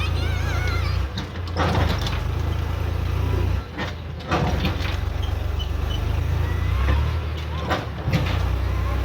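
Eicher 5660 diesel tractor engine running, hauling a loaded trolley: a steady low drone that shifts abruptly a few times, with a few sharp knocks.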